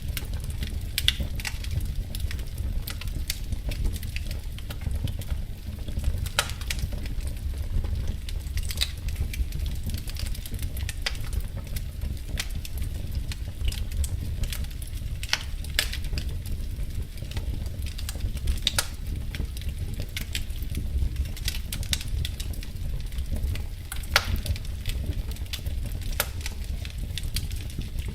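Wood fire crackling in a fireplace: a steady low rumble with frequent sharp, irregular pops and snaps.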